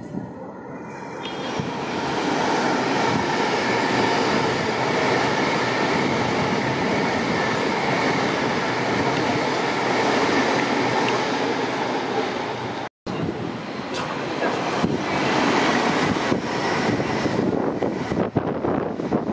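Passenger train passing through the station: a loud, steady rush of wheel and rolling noise that builds over the first two seconds, with scattered clicks in the later part. The sound cuts out briefly about 13 seconds in.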